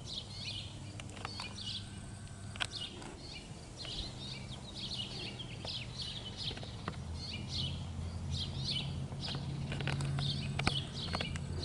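Small birds chirping over and over, short high chirps several times a second, with a low steady rumble underneath that grows louder in the second half.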